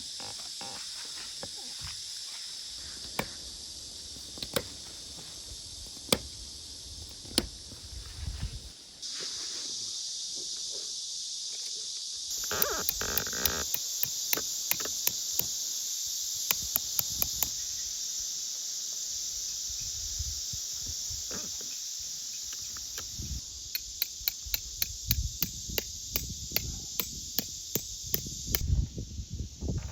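Insects droning steadily in a high band, with a run of short sharp clicks and knocks that grows busier in the second half.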